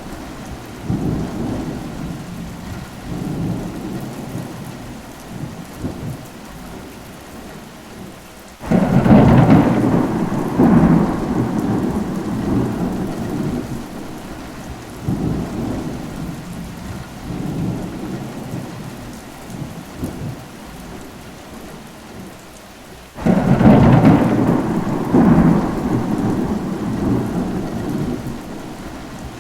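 Steady rain with thunder: two sudden loud claps, about fourteen seconds apart, each rolling away in long rumbles, with softer rumbling in between.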